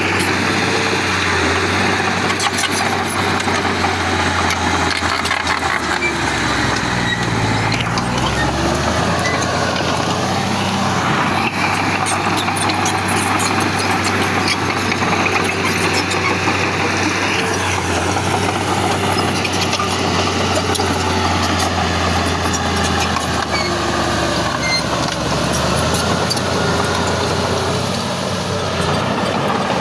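Heavy diesel engine of earthmoving machinery running steadily under work, its pitch shifting a few times as the load or throttle changes.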